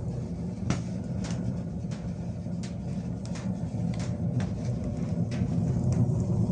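Wood fire burning in a stove: irregular sharp crackles and pops over a steady low rumble.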